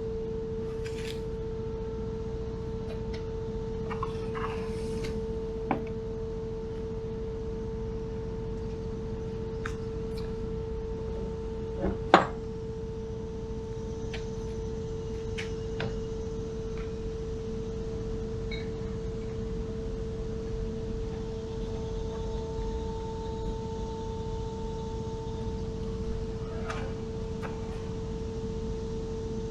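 A steady one-pitch hum over a low rumble, with a few scattered clicks and knocks; the loudest is a sharp knock about twelve seconds in.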